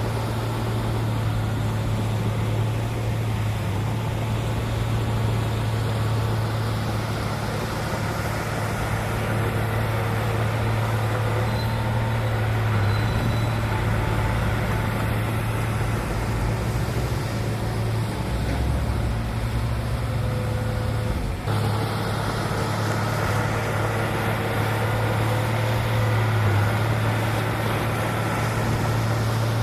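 Heavy diesel engine of earthmoving equipment running steadily with a constant low drone, broken for a moment about two-thirds of the way through.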